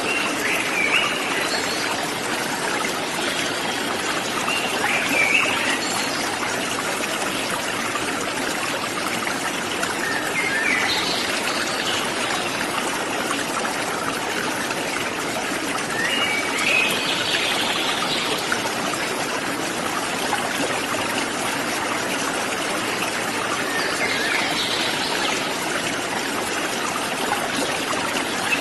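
Waterfall and stream water rushing steadily, with a bird calling briefly every several seconds, about five times.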